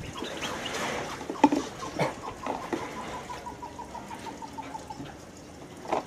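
A bird calling a long run of short, even notes on one pitch, about four a second, with a few sharp knocks near the start.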